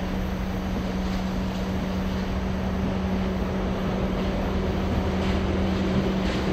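Diesel locomotive engine running with a steady hum, slowly growing louder as it comes closer, from a JR DD51 diesel-hydraulic locomotive.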